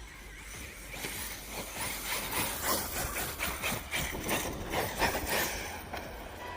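RC stunt truck driving across skatepark concrete: tyre rumble and rough scraping that swells about a second in and eases off near the end.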